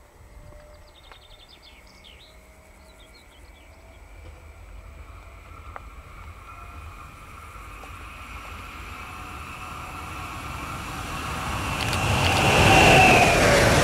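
A train approaching on the line: its sound grows steadily louder for several seconds and is loudest near the end as it comes close.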